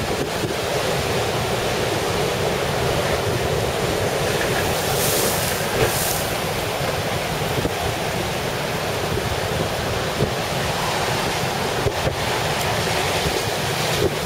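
Storm surf and strong wind on the shore in a steady loud rush, with wind buffeting the microphone. Two brief hissing surges come about five and six seconds in.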